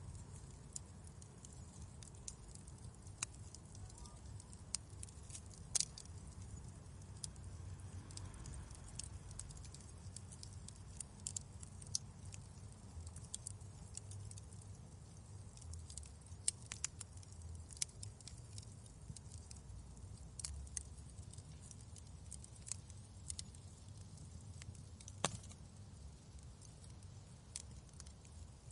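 Wood fire crackling in a fireplace: sharp little pops and snaps at irregular times, a few louder than the rest, over a low steady rumble of the flames.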